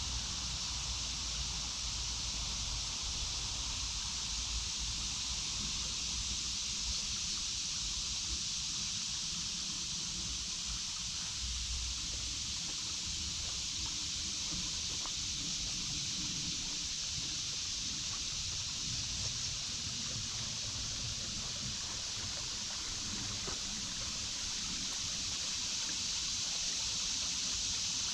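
Steady high-pitched drone of cicadas, the summer insect chorus of the woods, over a babbling creek, with an uneven low rumble underneath.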